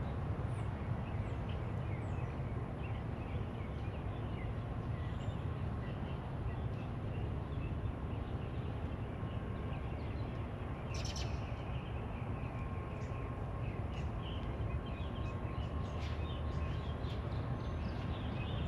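Small birds chirping on and off over a steady low outdoor rumble, with a brief sharp rustle about eleven seconds in.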